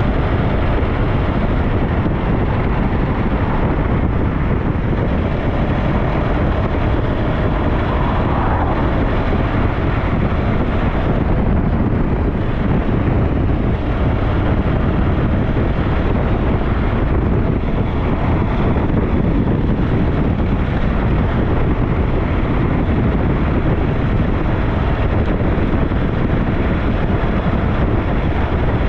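SYM NH T 200 running steadily while riding, mixed with wind rushing over the microphone.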